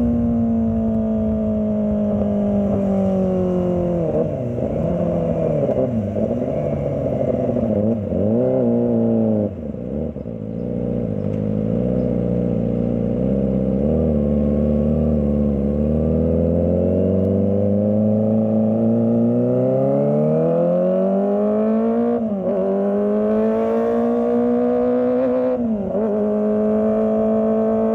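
Kawasaki ZX-25R's 250 cc inline-four engine running hard in traffic: it holds high revs, wavers and falls to low revs for several seconds in the middle, then climbs steadily back to high revs, with two brief dips in pitch near the end.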